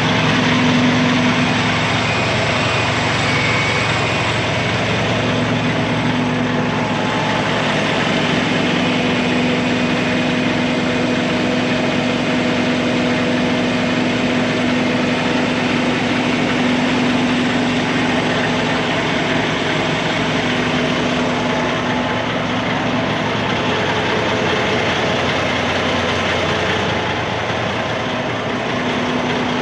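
Semi truck's diesel engine running steadily at a constant pitch, a low hum with no revving.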